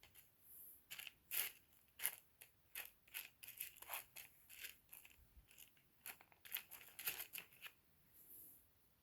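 Small rough opal chips clicking and tapping against one another as they are handled: a quiet, irregular run of many short clicks with a soft rustle or two, stopping about half a second before the end.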